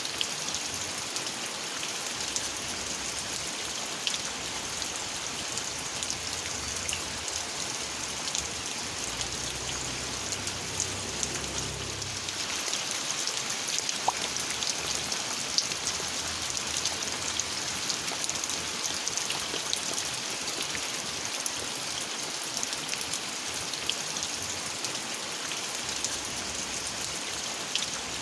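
Steady rain falling: an even hiss with scattered separate drops. A low rumble comes up and fades about ten seconds in.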